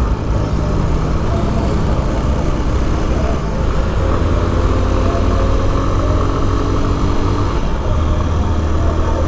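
Honda XRE 190 motorcycle's single-cylinder engine running while being ridden, its note shifting in pitch in the middle of the stretch.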